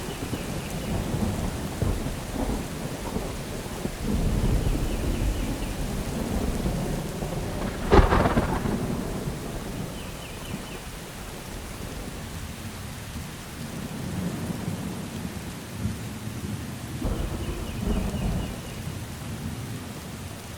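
Thunderstorm with steady rain and rolling thunder rumbles, and one sharp, loud thunderclap about eight seconds in.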